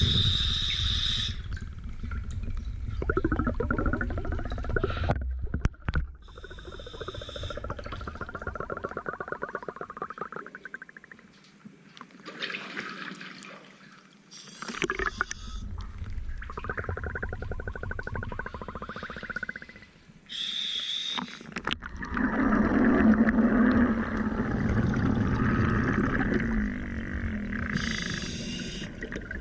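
Scuba diver breathing through a regulator underwater: a short hiss of inhalation about every seven seconds, each followed by a long bubbling, crackling exhalation.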